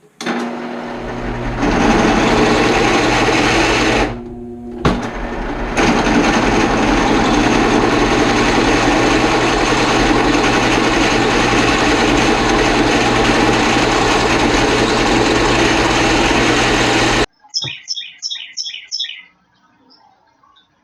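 Drill press running and drilling through steel plate with a bit the operator thinks is very dull: a steady motor hum under a loud grinding cutting noise. The cutting eases briefly a little after four seconds in, then resumes until the drill stops abruptly. A quick series of about six short, high chirps follows near the end.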